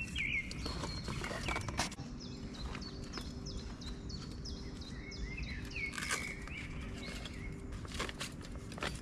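Small birds chirping and singing, with a run of quick repeated short notes through the middle. Under them is a steady low hum. A few knocks and rustles of bags and bike gear being handled come in the first two seconds and again near the end.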